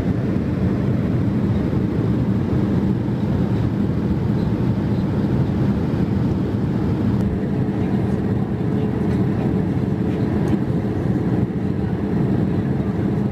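Steady cabin noise of a Boeing 787-8 Dreamliner in cruise: an even, low rush of engine and airflow noise. A faint steady tone comes in about halfway through.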